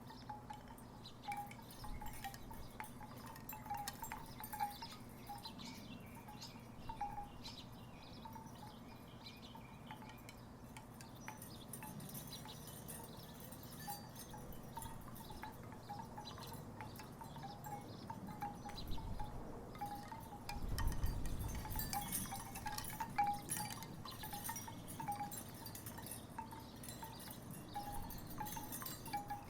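Wooden tiki wind chimes knocking together in a breeze, hollow wooden tones struck irregularly throughout. About two-thirds of the way through, a gust of wind rumbles on the microphone and the chimes knock harder.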